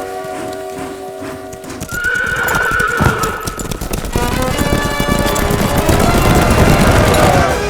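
Horses galloping, hooves clattering, with neighing, over film background music. A steady held tone fades out about two seconds in, and the clatter grows denser in the second half.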